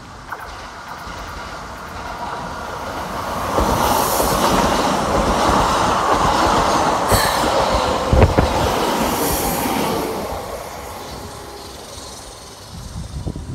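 A Keikyu electric train passing close by: a rushing rumble that builds, stays loud for several seconds and then fades, with wheel clatter over rail joints and a few sharp knocks about eight seconds in.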